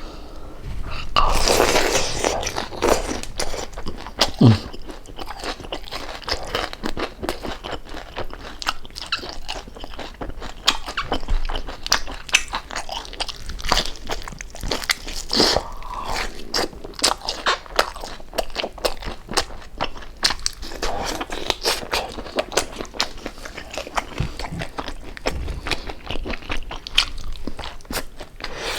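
Close-miked chewing of crispy pork jowl: loud, irregular crunching of crackling skin with biting and wet mouth sounds.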